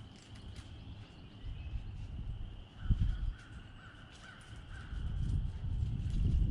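A bird calling several times in short repeated calls over a steady high hum, with low thumps and rumble about three seconds in and again near the end.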